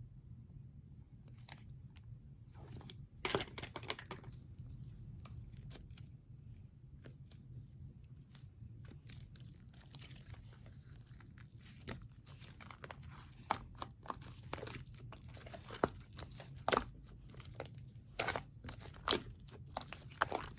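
Clay-mixed slime being pressed and poked by hand, giving scattered crackling, popping clicks. The clicks are sparse at first and come thicker and louder over the last several seconds.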